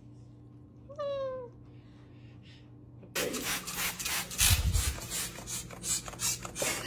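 A pet gives one short squeaky call, falling in pitch, about a second in. From about three seconds on there is a steady scuffling, rubbing noise with one dull thump midway.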